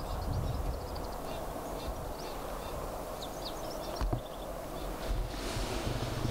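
Small birds chirping in many short, repeated notes over a steady low outdoor rumble, with one sharp click about four seconds in.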